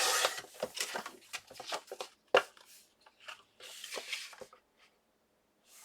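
Paper and packaging being handled: irregular rustling with light taps and one sharper click about two and a half seconds in, dying away to quiet a second before the end.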